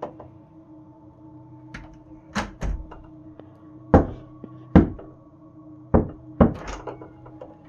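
Knocking on a closet door: about six sharp knocks, mostly in pairs, over a faint steady hum. The knocks are of unknown origin, with no one there to make them.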